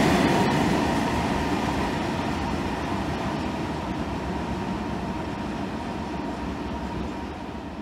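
Freight train of covered hopper wagons rolling past, its wheels rumbling and clattering on the rails. The sound fades steadily as the tail of the train moves away.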